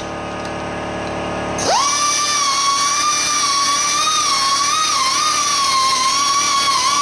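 High-speed rotary grinder porting a 16-valve cylinder head, giving a high steady whine. It runs slower and lower for the first second and a half, then rises sharply back to full speed, with small dips in pitch as the bit bites into the port metal.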